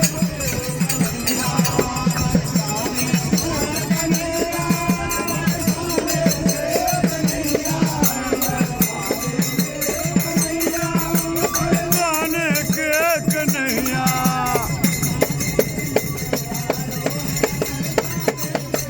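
Devotional group music: voices singing over a fast, steady beat of jingling hand percussion. About twelve seconds in, a high, wavering vocal line rises above the rest for a couple of seconds.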